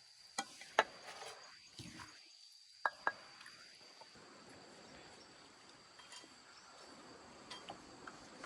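A few light clinks and taps of kitchenware: two sharp taps about half a second in and another pair about three seconds in, over a faint steady high-pitched tone.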